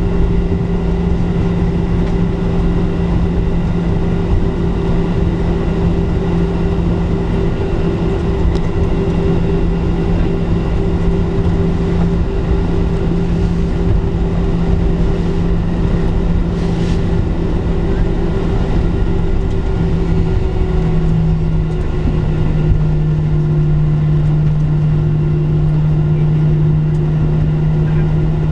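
Boeing 737-700 cabin noise from a window seat over the wing, on the ground before takeoff: a steady hum and whine of the CFM56 jet engines at idle over a constant rumble. About three-quarters of the way through, the hum drops slightly in pitch.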